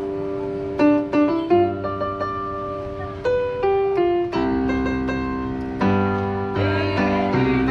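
Keyboard playing an instrumental introduction with no singing yet: single struck notes and short phrases, joined by fuller sustained chords from about halfway through.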